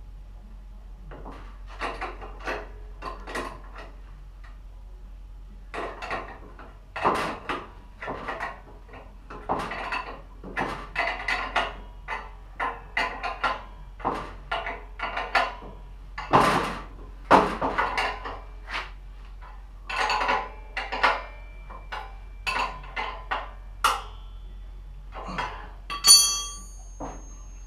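Metal tools and parts being handled and knocked together: a string of irregular clanks and taps, with one brighter ringing clink near the end.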